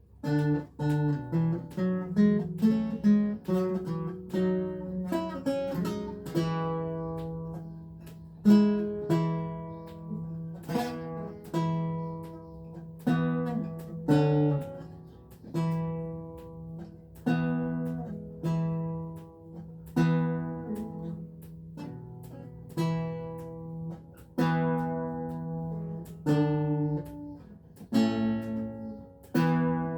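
Renaissance lute played solo: a piece starts at once with a quick run of plucked notes, then settles into slower plucked chords, each ringing and fading, about one a second over a steady bass.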